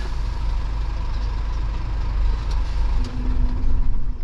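Lorry's diesel engine running with a steady low rumble; a steady low hum joins about three seconds in.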